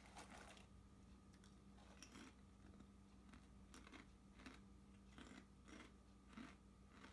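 Faint crunching of a Chesapeake crab potato chip being bitten and chewed: soft, irregular crunches about every half second to second, over a low steady hum.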